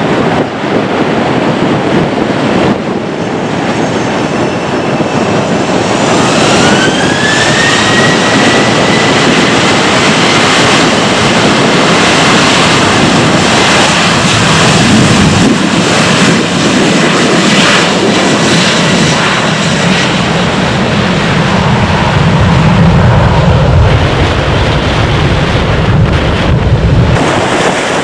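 Boeing 737-800's CFM56-7B jet engines spooling up to takeoff power: a whine rises over about two seconds, then holds steady over a loud rush of engine noise. Near the end a deep rumble swells, then drops off shortly before the end.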